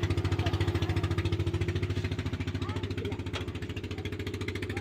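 An engine idling with a steady, rapid pulsing beat.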